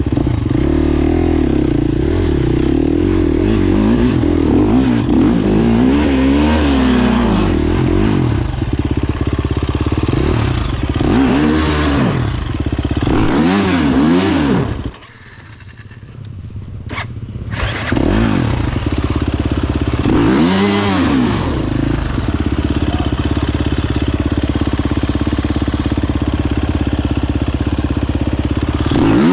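Dirt bike engine running hard with repeated throttle blips, its pitch rising and falling every second or two. About fifteen seconds in it drops away sharply for a couple of seconds, then builds back up.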